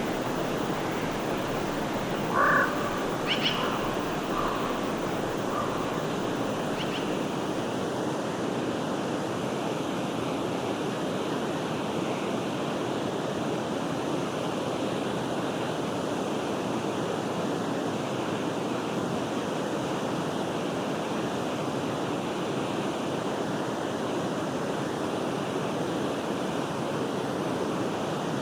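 Forest stream flowing, a steady rush of water. A few short bird calls come through between about two and seven seconds in, the first the loudest.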